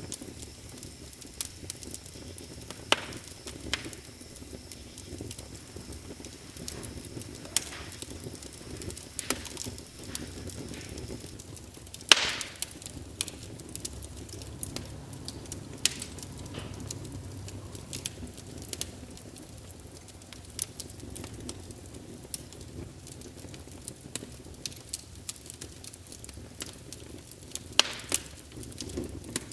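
Fire in a fireplace crackling: irregular sharp pops and snaps over a low steady rush of flame, with one loudest snap about twelve seconds in.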